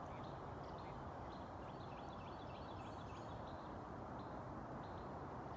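Small birds chirping over a steady background hiss, with a quick run of high chirps in the middle.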